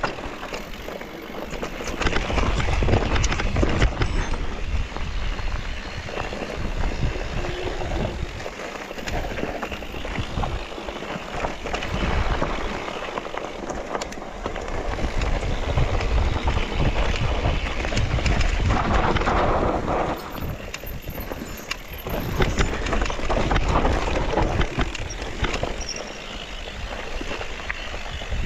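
Mountain bike riding down a rough trail: tyres crunching and rattling over dirt and stones, with wind rumbling on the microphone.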